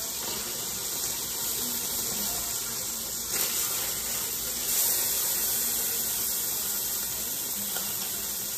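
Tuna pieces frying in oil in a stainless steel pan: a steady sizzle, with a light click about three seconds in. The sizzle grows a little louder about five seconds in.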